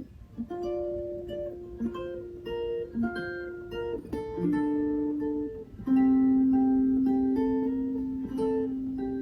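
Mountain dulcimer played in CGc tuning: a plucked melody over long-held lower notes.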